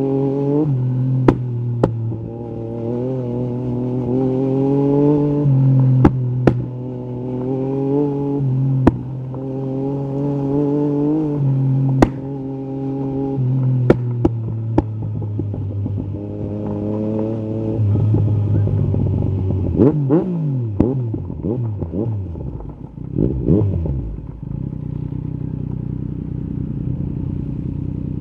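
Yamaha three-cylinder motorcycle engine through an Akrapovic carbon exhaust, under way: it pulls up through the revs and drops back at each gear change several times, with sharp knocks and clatter over it. About two-thirds of the way in the revs swing quickly up and down, then settle into a steady note.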